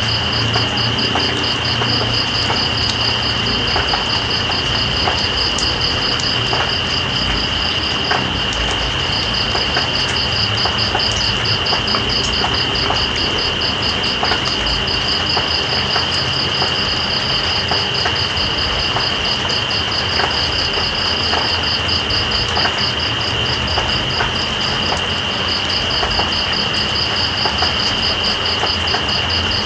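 Night insects calling over steady rain: one keeps up an unbroken high trill, while another chirps in a fast pulsed rhythm that breaks off briefly about eight seconds in. Underneath, rain makes an even hiss, with scattered drips.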